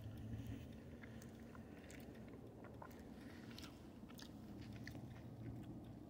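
Faint chewing of a mouthful of soft angel hair spaghetti, with a few light scattered clicks.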